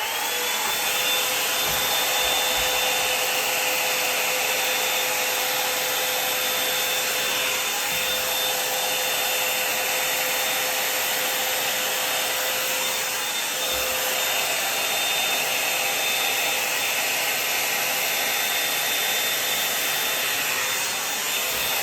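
Hot air brush (blow dryer and brush combined) running steadily: rushing fan air with a steady high whine, which rises briefly in pitch as it starts up.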